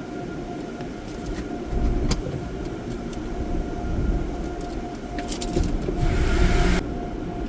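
Peco car wash tunnel machinery running, really loud: a steady rumble with a constant whine, a few clicks, and a hiss lasting under a second about six seconds in.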